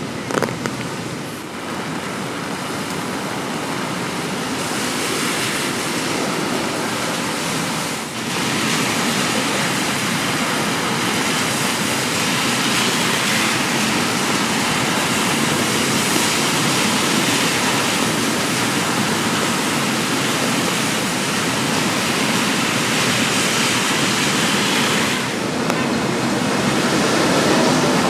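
Steady rain falling on a city street, an even hiss that dips briefly about 8 seconds in and again near the end, with a short knock just after the start.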